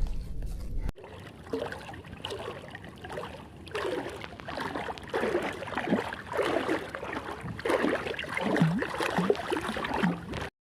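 Water close by lapping and plopping in short gurgles, each dropping in pitch, several a second.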